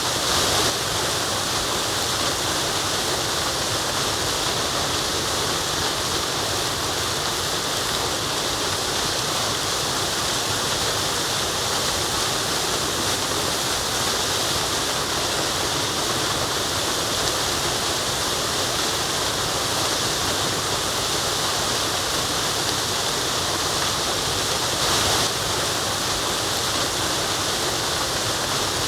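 Waterfall: falling water splashing and rushing in a steady, continuous roar of noise.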